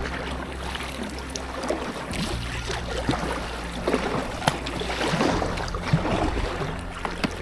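Paddle strokes dipping and splashing in river water beside an inflatable packraft, with irregular sharp splashes a second or two apart.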